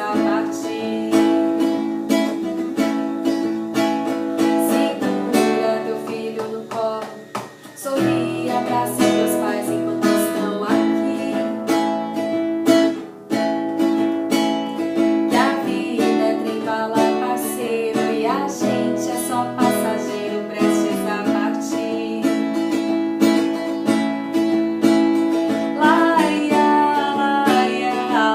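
Acoustic guitar being strummed and picked through an instrumental stretch of the song. It drops away briefly about seven seconds in, then comes back with a strong strum.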